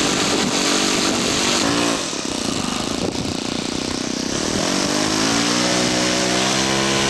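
Engine of a radio-controlled scale model Sopwith 1½ Strutter running, then rising in pitch about four and a half seconds in and holding a steady higher note as it throttles up for the takeoff run.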